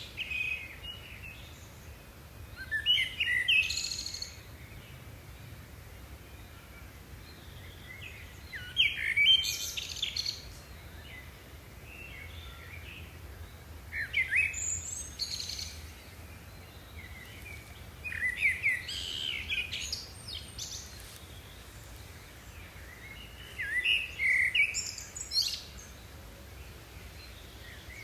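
A bird singing short warbling phrases, repeated about every five seconds, over a faint steady low background noise.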